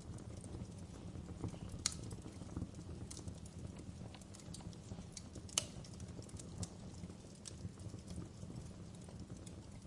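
Wood fire crackling in a stone fireplace: scattered sharp pops and snaps over a steady low rumble, with two louder pops about two seconds and five and a half seconds in.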